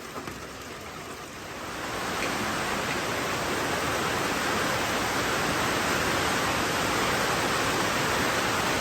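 Heavy rain pouring down in a steady hiss that swells louder about two seconds in.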